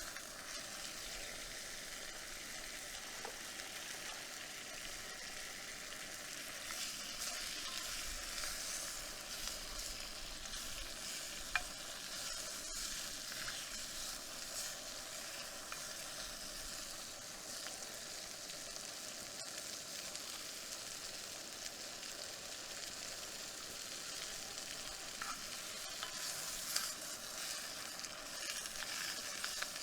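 Steady sizzling hiss at a campfire, with a sharp pop about a third of the way in and another near the end.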